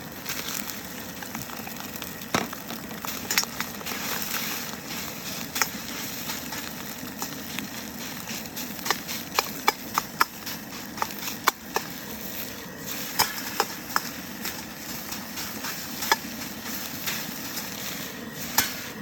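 Rice frying with a steady sizzle in a hot wok over a gas burner, while a metal utensil knocks and scrapes against the wok again and again, breaking up clumps of hard rice that will not separate.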